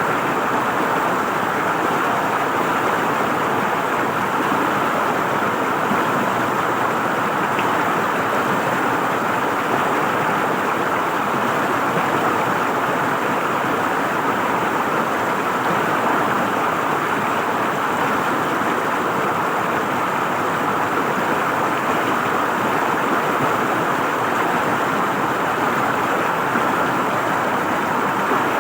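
River water flowing and gurgling in a steady, unbroken rush.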